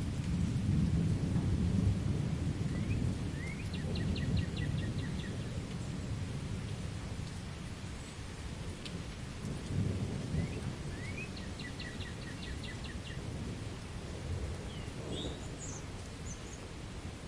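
Thunder rumbling low over steady rain, strongest in the first few seconds and again about ten seconds in. A bird sings the same short rising, trilled phrase twice, with a few higher chirps near the end.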